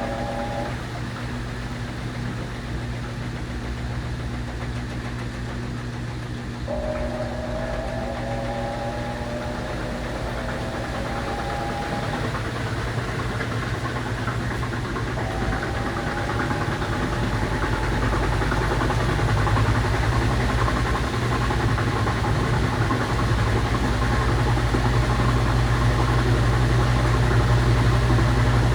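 Panasonic 12 kg washing machine (NA-F120B1TA) spinning up: its motor whine climbs in pitch several times over, and a low hum grows louder about two-thirds of the way in as the drum gathers speed towards its 700 RPM spin.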